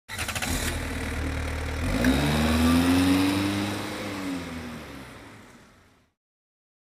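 Car engine sound effect: it runs, then revs up about two seconds in, its pitch sinking again as it fades away by around six seconds.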